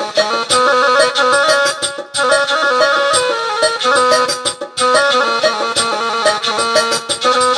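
Syrian-style folk music from a keyboard app's sound set: a reedy wind-instrument voice plays a fast run of short melodic notes over a drum rhythm, with brief breaks in the melody about two seconds in and again past the middle.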